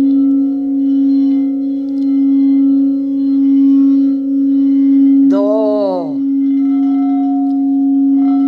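Quartz crystal singing bowls ringing: one strong, steady low tone whose loudness swells and fades about once a second, with a second, higher tone joining about seven seconds in. A brief voice, rising then falling in pitch, sounds over the bowls about five seconds in.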